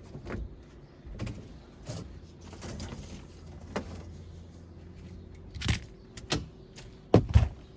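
A series of irregular knocks and clunks from hand work on the boat, the loudest a quick double knock near the end, over a low steady hum that stops a little past halfway.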